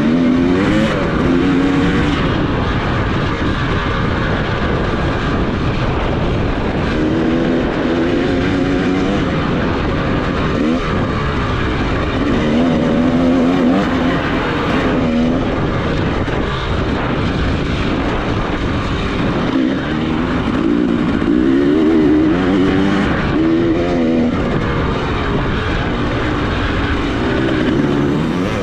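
Off-road motorcycle engine ridden hard, its pitch rising and falling over and over as the throttle is opened and shut and the gears change, over a steady rushing noise.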